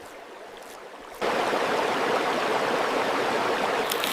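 A steady, even rushing noise, like running water. It is much quieter for about the first second, then comes back up and holds steady.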